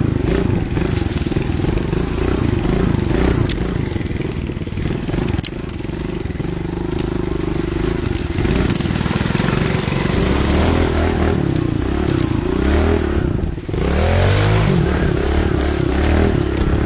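Motorcycle engine running and revving, its pitch rising and falling repeatedly in the later part, with a brief break about two-thirds of the way through.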